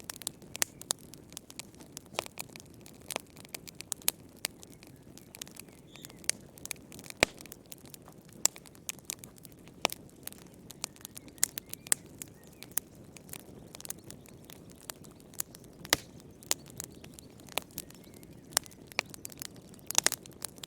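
Wood fire burning in a fireplace: irregular sharp crackles and pops, several a second, over a soft low hiss of flames.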